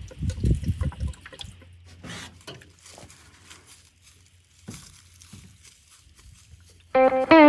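Penetrating oil being squirted onto the rusty parts of a seized engine, liquid trickling and dripping, with a few handling knocks and clicks. Guitar music starts near the end.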